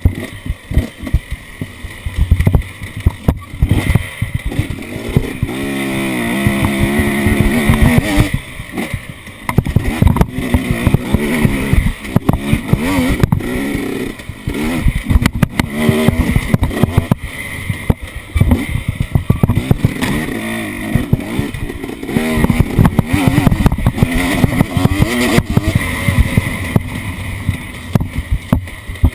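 An off-road vehicle's engine running and revving up and down, with a sustained climb in revs about six seconds in, over constant jolting and buffeting on the microphone.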